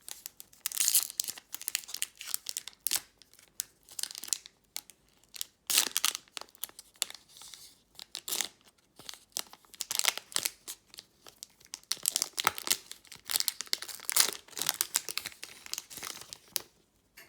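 Pokémon TCG Evolutions booster pack wrapper being crinkled and torn open by hand, with irregular crackles and short pauses throughout.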